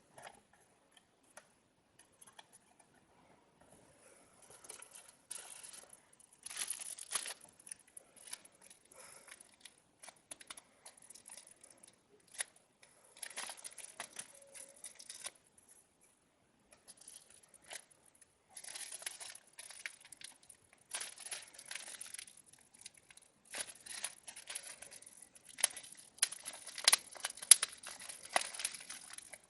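Wrapping material being handled by hand: irregular crinkling and rustling with scattered small clicks, in short spells that grow busier and louder near the end.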